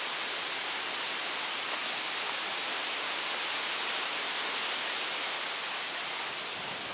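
Storm wind blowing, a steady, even rushing noise with no breaks, easing slightly near the end.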